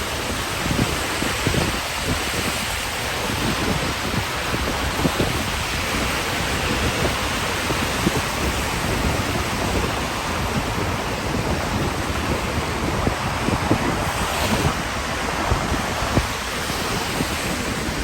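Steady rain hiss with wind buffeting the microphone in low, uneven gusts, and a brief swell of hiss late on.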